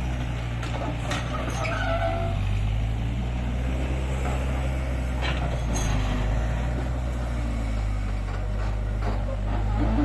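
Heavy construction machinery's diesel engine running steadily, a constant low drone, with a few faint knocks and short squeaks over it.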